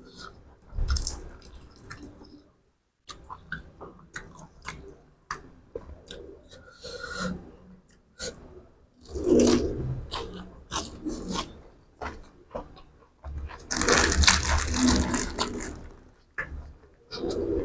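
Close-up eating sounds: chewing and crunching food with mouth clicks, in irregular bursts that grow louder about halfway through and again near the end.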